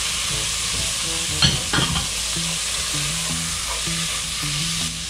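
Meat frying in hot oil with sautéed garlic and onion in a pot, a steady sizzle. There are a few sharp knocks of a utensil against the pot about a second and a half in.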